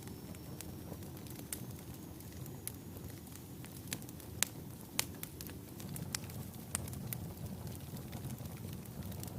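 Wood fire burning in a fireplace: a steady low rumble of flames with scattered sharp crackles and pops, the loudest two about halfway through.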